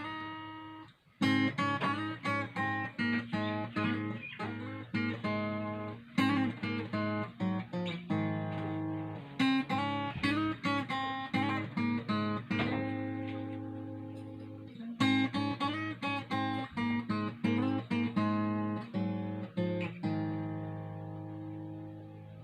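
Ovation Applause AE27 acoustic guitar played unplugged and tuned below standard pitch: quick picked notes and chords in phrases, starting about a second in, with a last chord ringing out and fading near the end.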